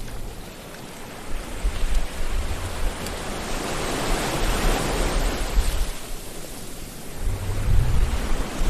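Sea waves washing ashore: a wash of surf that builds to a peak in the middle and then eases off, with low rumbling underneath that comes and goes.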